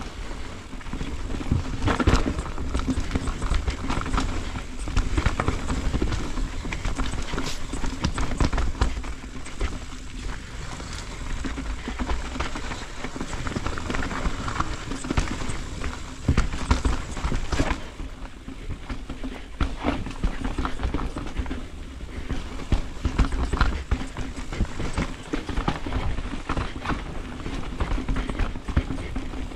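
Carbon Ibis Ripmo mountain bike ridden fast down a rough dirt trail: tyres rumbling over the ground with a constant irregular clatter of knocks and rattles from the bike, easing off a little around ten and eighteen seconds in.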